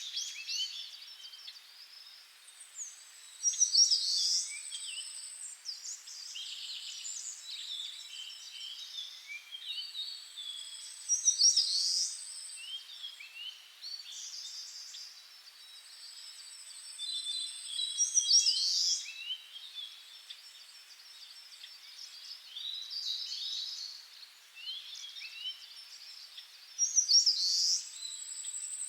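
Several birds chirping and singing over one another, with a high, steady buzzing trill that comes and goes. The loudest bursts of song come about every seven to eight seconds.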